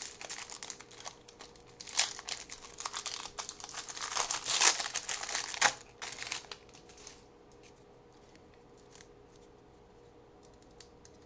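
A trading-card pack wrapper being torn open and crinkled: rustling and ripping for about six seconds, loudest near the middle. After that it goes quiet apart from a few faint ticks.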